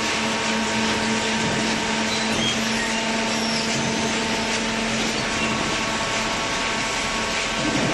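Two-ram horizontal hydraulic baler running steadily: a constant machine hum with a wash of noise from its hydraulic power unit and conveyor.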